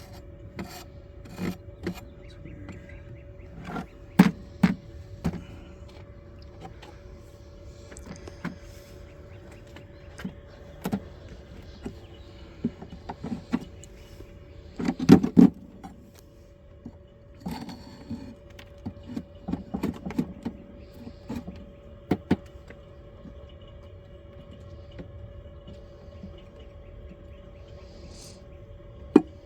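Irregular knocks, clicks and scrapes of wooden beehive frames and hive parts being handled and pried apart, with the loudest cluster about halfway through; a faint steady hum runs underneath.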